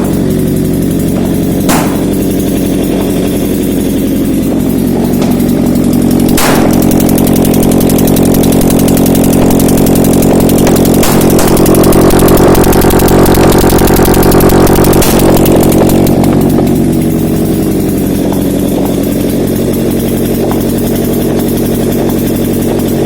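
Nissan QR25DE 2.5-litre four-cylinder engine running on a test stand: idling, then brought up slowly to a higher speed about a third of the way in, held there for a few seconds, and let back down to idle. Two brief sharp clicks are heard in the first third.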